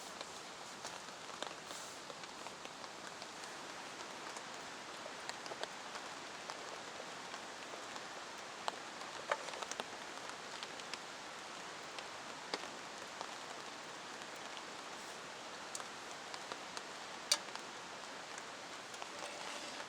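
Steady rain falling, an even hiss with scattered louder drops tapping and one sharper tick about seventeen seconds in.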